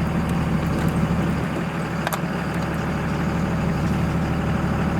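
Truck engine running steadily while driving on a dirt road, heard from inside the cab, with road noise and a single sharp click about two seconds in.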